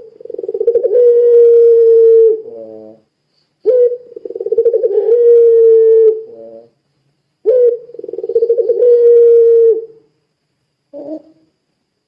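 A puter pelung dove gives three long coos about four seconds apart. Each is a held tone that swells in with a tremble and ends in a brief stuttering flourish. A short coo follows near the end.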